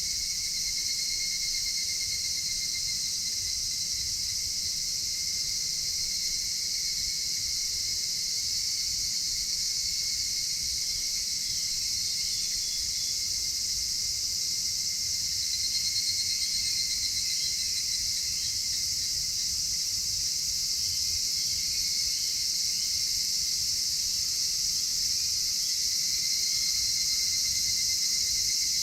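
A chorus of crickets and other insects trills steadily: a dense high shrill layer with a lower, evenly pulsing trill beneath it. Faint short calls come and go in the middle, over a low rumble.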